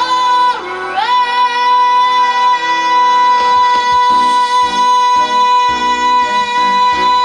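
A singer holding one long high note, sliding up into it about a second in and then sustaining it steadily, over an instrumental backing track whose bass and drums come in beneath it about halfway through. It is the drawn-out climactic final note of the song.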